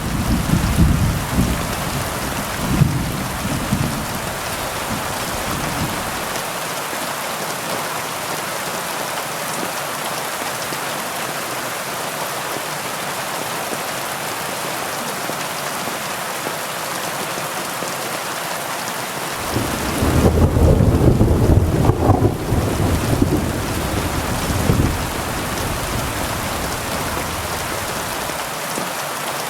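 Heavy rain falling in a steady hiss, with low rolls of thunder in the first few seconds and again about two-thirds of the way through.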